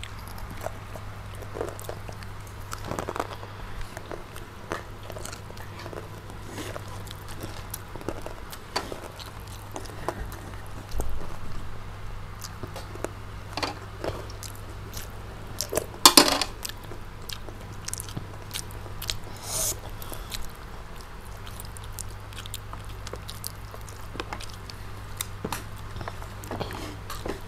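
Close-miked chewing and biting of crispy fried chicken and rice, with scattered small wet clicks and crunches, over a low steady hum. A louder burst of sharp sounds comes about sixteen seconds in.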